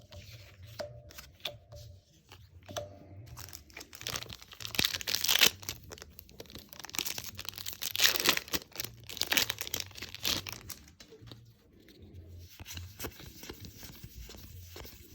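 A Magic: The Gathering draft booster pack's foil wrapper being torn open and crinkled in the hands. The crackly tearing is loudest through the middle of the stretch, with lighter handling clicks before and after.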